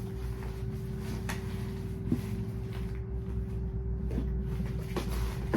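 A few light knocks and clicks from objects being handled, the sharpest about two seconds in and another at the very end, over a steady low hum with a faint steady tone.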